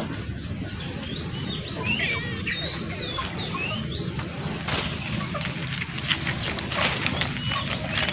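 Birds chirping in short, high, curling calls over a steady low rumble, with quick scratchy rustling in the second half as a bunch of artificial flowers is shaken.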